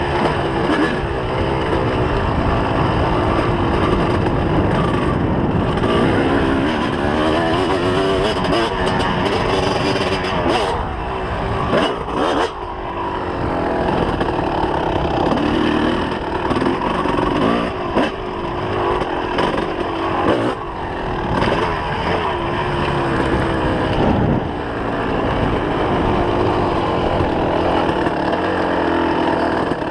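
2004 Kawasaki KX250 two-stroke single-cylinder motocross engine, revving up and down again and again as the bike is ridden hard through the gears. A few sharp knocks stand out over the engine.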